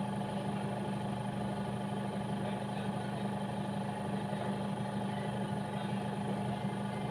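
A steady machine hum, holding a few fixed low tones over a soft hiss, with no change in pitch or level.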